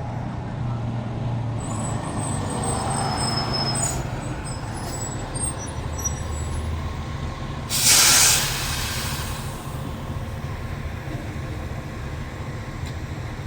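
A heavy vehicle's engine idling with a steady low hum, and about eight seconds in a single loud burst of air-brake hiss.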